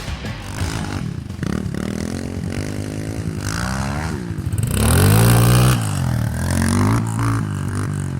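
Dirt bike engine revving up and down repeatedly, loudest and highest-pitched about five seconds in.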